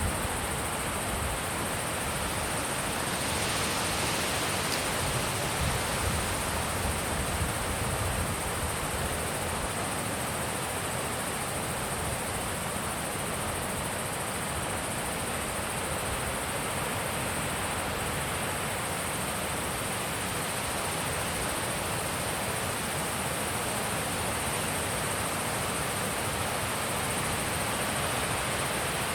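Wind blowing steadily outdoors, an even rushing noise, with low rumbling gusts on the microphone in the first few seconds. A steady thin high-pitched hiss runs above it throughout.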